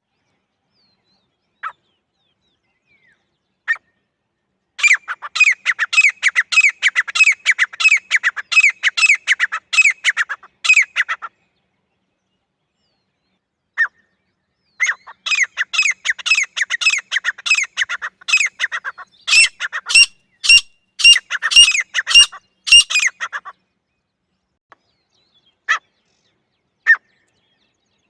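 Grey francolin calling: a few single short notes, then two long runs of rapid, repeated shrill notes several a second, the second run turning louder and sharper past its middle, with single notes again near the end.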